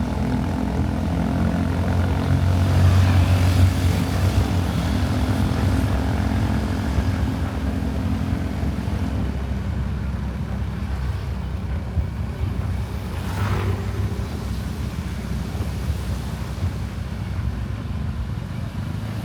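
Motorcycle engine running steadily on the move, its note changing and easing about nine seconds in.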